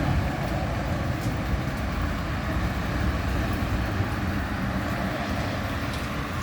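Steady low vehicle rumble with a constant hiss over it, unchanging through the stretch.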